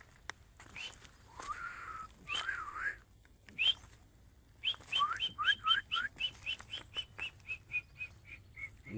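Francolin (titar) calling: loud whistled notes, a few scattered at first, then a quick run of repeated calls about three a second from around halfway in, fading toward the end.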